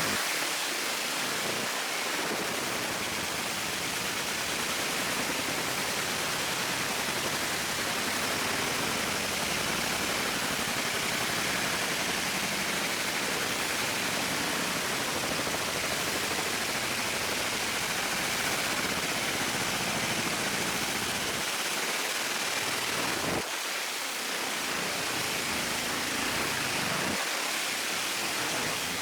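Steady, even hiss from a fiber laser engraving setup at work, with no tone or beat in it, dipping briefly about 23 seconds in.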